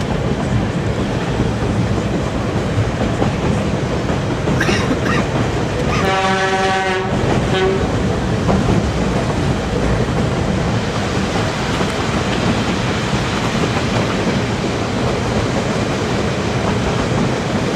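Narrow-gauge train running steadily, heard from an open car, with continuous wheel and rail noise. About six seconds in, the diesel locomotive's horn sounds once for about a second and a half.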